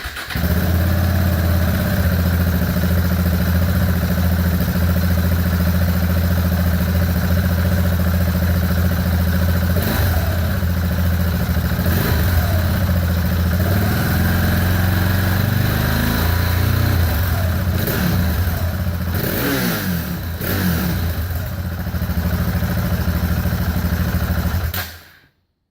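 2014 KTM 690 Duke's single-cylinder four-stroke engine, de-catted and running through an Ixil Hexoval Xtreme Evolution silencer with its smallest baffle fitted. It idles steadily, is blipped up and back down several times from about ten seconds in, then stops abruptly near the end.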